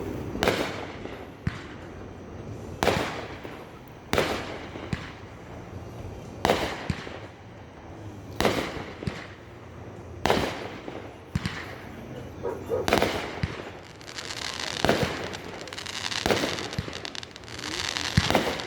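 Fireworks going off in a steady series, sharp booms about one to two seconds apart, each trailing off in an echo. From about two-thirds of the way through, a dense crackle builds under the booms.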